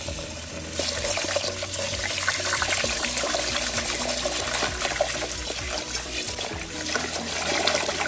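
Tap water running into a rice cooker's inner pot while a hand swishes and scrubs the rice grains, washing the rice before cooking; the splashing grows louder about a second in as the hand starts working the rice.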